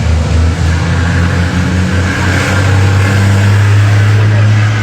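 Aircraft engine noise at an airport: a loud, steady drone with a low hum that steps up in pitch about halfway through, over a rushing hiss.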